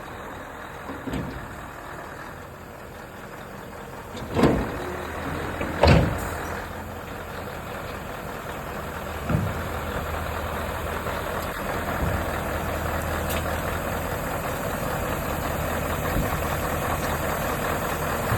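Scania 144 G 460's V8 diesel engine idling steadily, with two loud knocks about four and a half and six seconds in and a lighter one a few seconds later.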